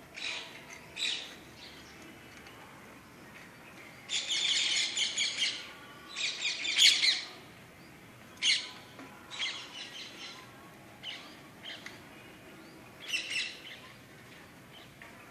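Small birds chirping in short, scattered bursts, with a quick run of chirps about four seconds in and the loudest call a little after.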